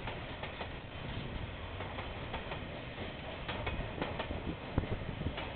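KiwiRail freight train wagons rolling past with a steady rumble and irregular sharp clicks and knocks, heard dull and muffled through a security camera's microphone.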